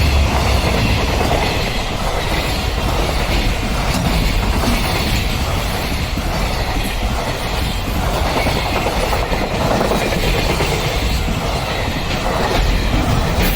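A train passing close by at a level crossing, its wheels running steadily and loudly over the rails throughout.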